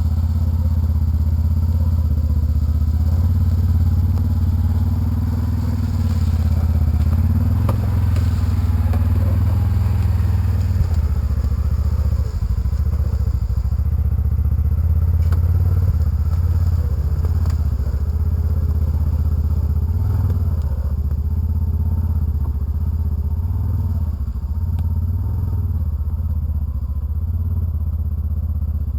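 Polaris Ranger side-by-side's engine running steadily while driving, with a few light knocks from the machine over rough ground.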